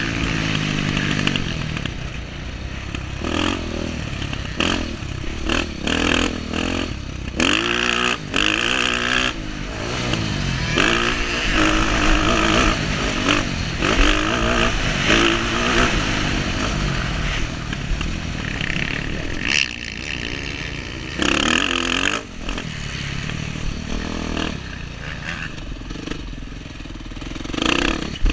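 Dirt bike engine revving up and down again and again, its pitch climbing then dropping off as the bike accelerates, shifts and slows, over a constant rush of noise.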